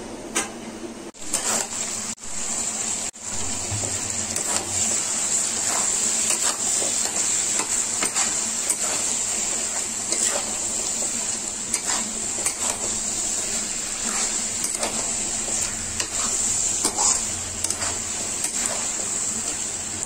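Boiled chickpeas frying in masala in a metal kadai, sizzling steadily, with a spatula scraping and knocking against the pan as they are stirred.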